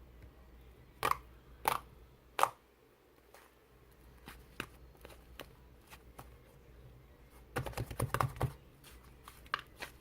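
Slime being pressed and squished by hand, giving sharp popping clicks: three loud ones about a second apart near the start, then scattered softer pops and a dense run of crackling pops past the middle.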